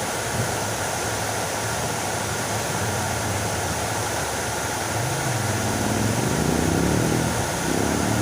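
Fountain water splashing steadily. From about five seconds in, a low hum whose pitch slides up and down rises over the splashing.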